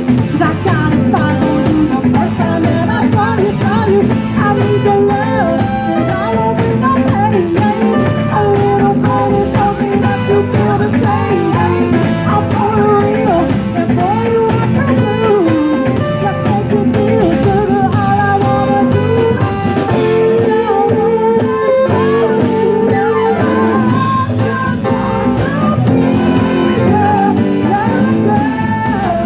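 A band playing blues-rock: guitars over a drum kit, with a lead line that bends in pitch throughout.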